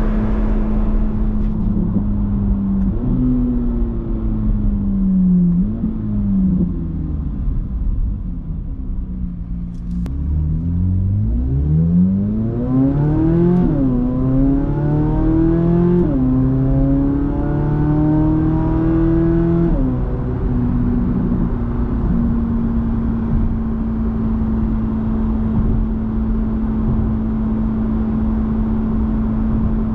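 Corvette C8 Z06's 5.5-litre naturally aspirated flat-plane-crank V8 cruising steadily, then dropping in pitch as the car slows. It then accelerates with rising revs through two quick upshifts before backing off about two-thirds in and settling into a steady cruise.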